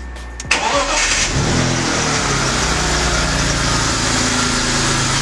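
BMW straight-six petrol engine starting: it catches about half a second in, flares briefly in revs, then settles into a steady idle. The owners suspect one ignition coil of misfiring and the engine of blowing white smoke.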